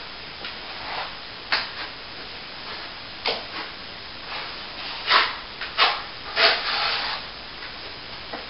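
A hand tool scraping on plaster in about six short strokes, the loudest and longest coming in the second half.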